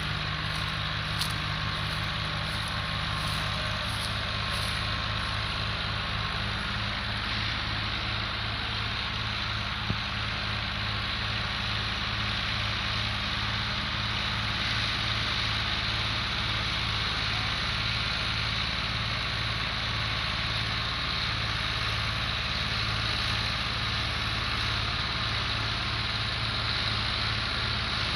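Fiat 480 tractor's diesel engine running steadily, with a low, evenly pulsing beat.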